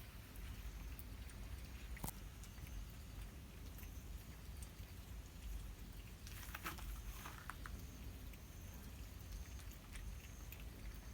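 Cats eating dry food: faint scattered crunches and clicks, with a cluster about two-thirds of the way through, over a low steady outdoor rumble.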